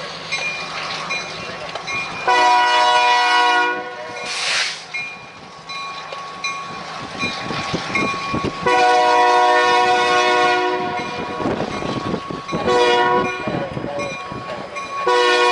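Diesel locomotive's multi-chime air horn sounding the long, long, short, long grade-crossing signal: two long blasts, a short one, then a last long one beginning near the end. Wind rushes across the microphone between the blasts.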